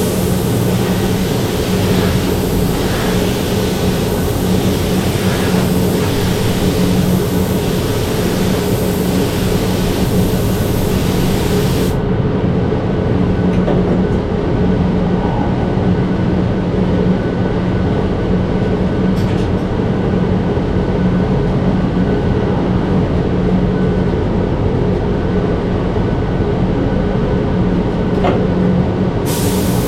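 Steady motor hum of cerakote spray equipment, with the hiss of compressed air from a spray gun. The hiss cuts off suddenly about twelve seconds in and starts again near the end.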